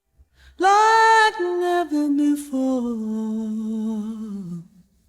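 Isolated female lead vocal singing a closing phrase without accompaniment. It starts on a loud high held note, steps down in pitch several times, and settles on a long low note that fades out near the end.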